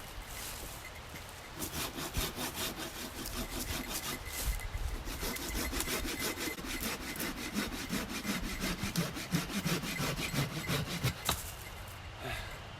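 Hand saw cutting through a fallen tree trunk in quick, even back-and-forth strokes. The rasping starts a second or two in and stops shortly before the end.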